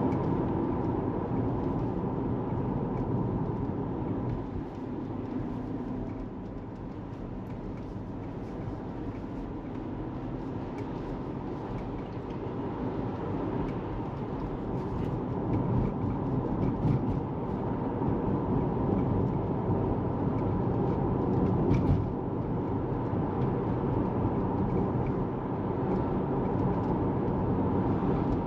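Tesla Model 3 driving on the road: steady tyre and road rumble with a faint steady hum, easing off for several seconds and then building again. A single short knock comes about three-quarters of the way through.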